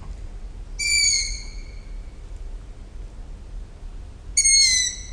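Owl calling: two short, high-pitched calls about three and a half seconds apart, the second dropping slightly in pitch.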